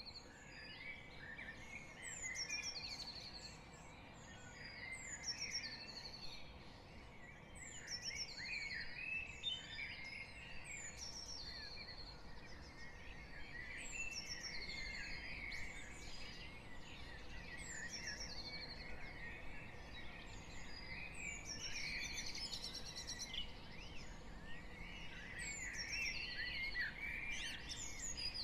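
Dawn chorus: many garden birds singing at once in dense, overlapping layers. One high song phrase that steps down in pitch recurs every two or three seconds. Faint distant traffic hum lies underneath.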